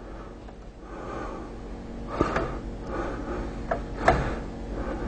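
Quiet hand-working noise with a few light clicks and soft breathing while the Harley-Davidson's clutch cable adjuster is backed off to slacken the cable.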